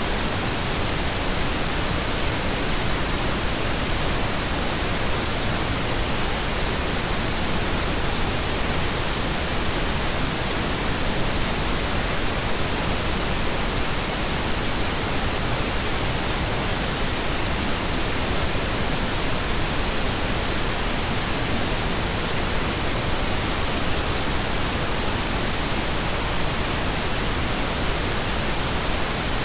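Steady pink noise: an even, unchanging hiss spread across all pitches, with no rhythm or variation.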